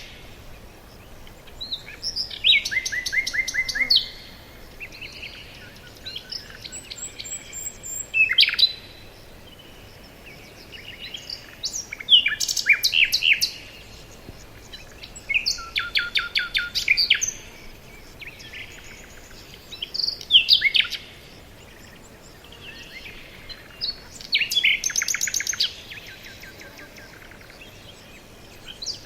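Forest songbirds singing: a loud song of fast trilled notes and quick sweeps, repeated in short phrases about every three to four seconds, with fainter chirps from other birds between them.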